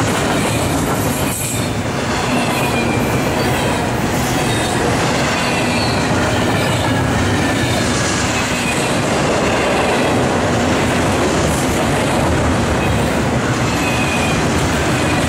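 Norfolk Southern double-stack intermodal well cars rolling steadily past on a curve, a loud, continuous sound of steel wheels on rail. Faint high wheel squeals come and go over it.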